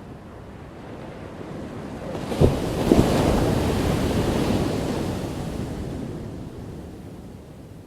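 A crashing ocean wave: the surf builds, breaks with two sharp slaps about two and a half seconds in, then washes out in a long fade.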